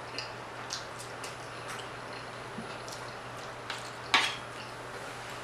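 Soft chewing with faint wet mouth clicks and smacks while eating chitterlings, with one louder smack about four seconds in.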